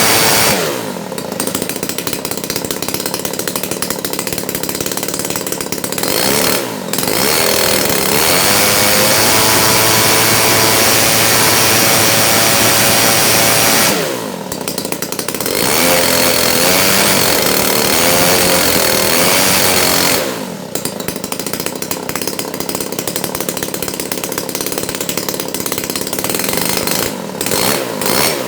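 Grass-cutter engine on a test run for use in an aircraft, running loudly with its speed dropping and rising several times. Near the end the throttle is blipped quickly in short bursts.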